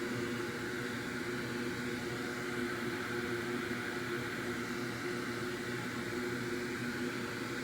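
Steady whirring hum of an electric fan on a microsoldering bench, even and unchanging, with a low hum and a higher whine in it.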